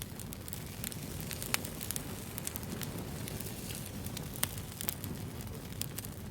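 Wood fire burning: a steady low rumble with scattered sharp crackles and pops, two louder pops about a second and a half and four and a half seconds in.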